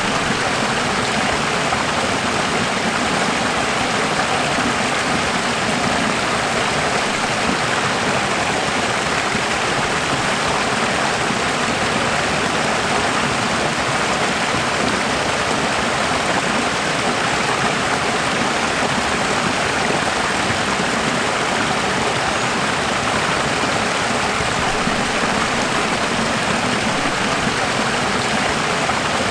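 Running water, a steady, unbroken rushing like a stream.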